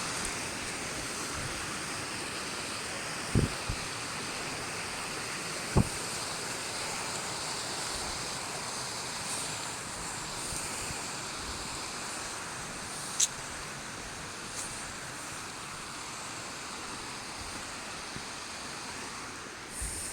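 Steady rush of water from a waterfall, with a few brief sharp knocks over it.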